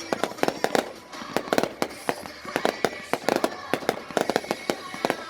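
Fireworks going off in a rapid barrage: sharp bangs and pops coming several a second at an irregular pace.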